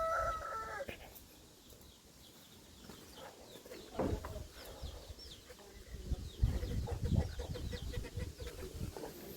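A rooster's crow trailing off in the first second, then faint scattered clucks and short high chirps over a low rumble of wind and handling.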